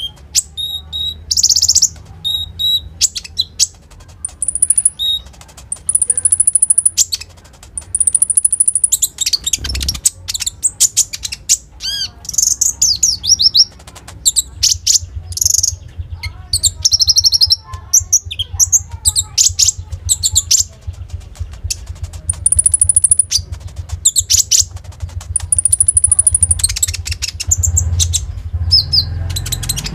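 Konin songbird singing a fast, loud run of high chirps, trills and whistles with hardly a pause, its song filled with imitated calls of other birds. A steady low hum runs underneath.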